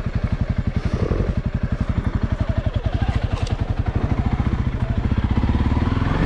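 Honda CRF300L's single-cylinder four-stroke engine running at low revs under way, its exhaust beats evenly spaced. It gets a little louder near the end.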